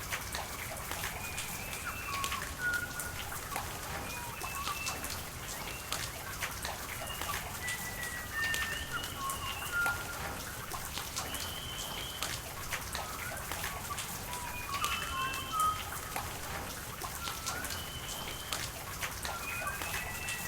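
Steady rain falling and pattering in sharp drips on surfaces, with birds calling over it in short whistled notes many times.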